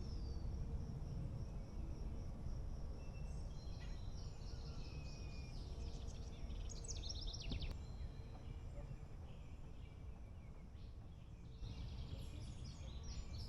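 Woodland ambience: songbirds singing in short bursts, about a third of the way in, in the middle, and again near the end, over a steady low rumble of wind, with a thin high insect buzz in the first few seconds.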